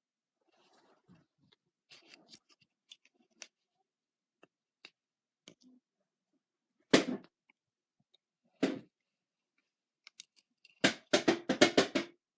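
Faint light handling sounds, then two loud single knocks about a second and a half apart, then near the end a rapid run of loud clattering knocks, several a second.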